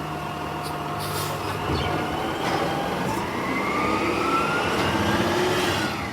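Garbage truck engine running and revving up, its pitch rising slowly over a few seconds and easing off near the end.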